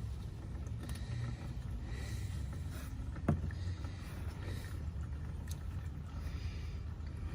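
Engine oil draining from the oil pan's drain hole into a catch pan in a steady stream, over a low rumble. A single short knock about three seconds in.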